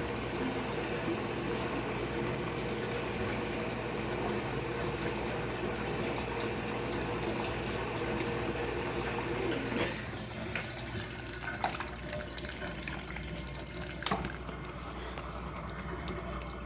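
Water running into the tub of an Electrolux LF75 top-loading washing machine as it fills. The flow stops about ten seconds in, leaving a few light clicks and knocks.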